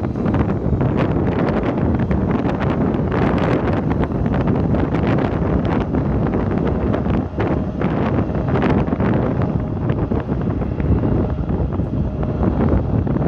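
Steady loud rush of a jet airliner taking off, with irregular wind buffeting on the microphone.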